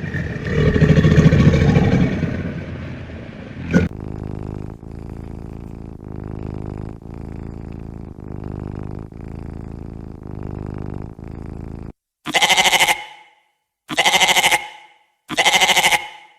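A loud low sound, then a softer sound pulsing about once a second, then sheep bleating loudly, a call of about a second every second and a half, four times near the end.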